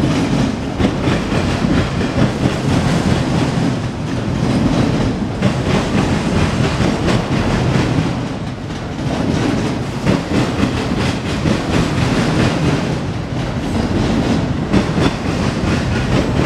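Autorack freight cars rolling past at speed: a steady rumble of wheels on rail, with an irregular clatter of clicks as the wheels cross the rail joints.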